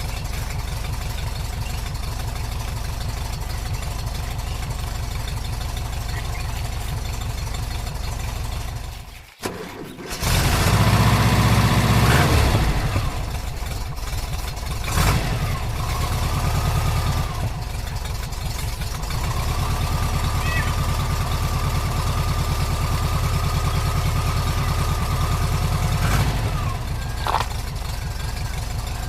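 Engine idling steadily. About nine seconds in it cuts out briefly and comes back louder. Later a steady high whine runs over it twice for several seconds, as when a loader's arm works.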